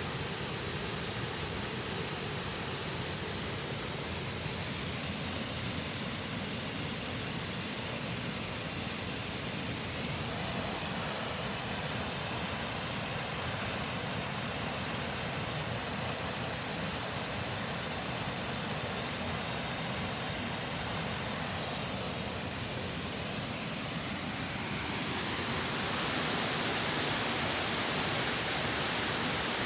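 Waterfall falling with a steady, even rush, the 32 m single drop running full after winter rain. The rush grows a little louder and brighter near the end.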